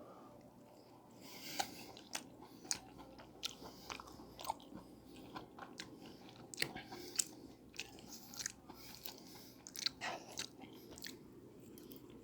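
Close-miked chewing and eating mouth sounds: irregular wet clicks and smacks, starting about a second in.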